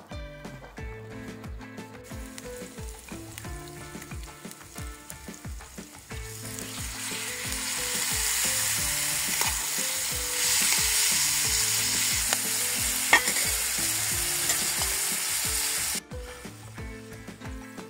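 Food sizzling as it fries in a pan. The sizzle grows louder a few seconds in, has one sharp click in the middle, and stops abruptly near the end.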